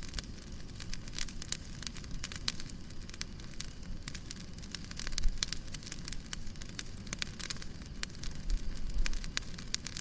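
Wood fire crackling and popping in a fireplace: many irregular short snaps over a low steady rumble of flames.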